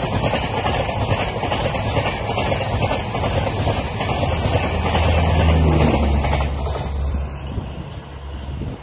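Humsafar Express passenger coaches passing at speed, a loud rush of wheels on rail over a low rumble. About seven seconds in, the last coach goes by and the noise falls away as the train recedes.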